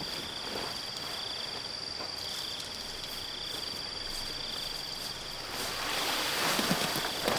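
Insects calling outdoors: one steady high trill, and a second, lower trill in pulses about once a second. A louder rustling noise swells up near the end.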